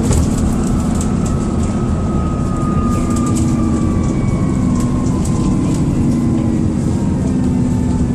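Dennis Trident II / Enviro400 double-decker bus heard from inside while travelling: a steady engine drone with a thin, kettle-like turbo whistle that slowly falls in pitch over several seconds. Short rattles come through now and then.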